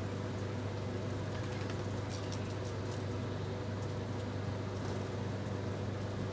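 Small birds at a feeding pot, giving a few faint, short clicks and taps as they peck, over a steady low hum.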